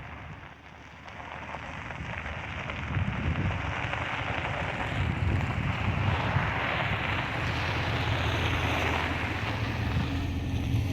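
Ford F-350 pickup truck driving on a dirt road: a steady low engine hum with road noise and wind on the microphone. The sound swells over the first few seconds, then holds steady.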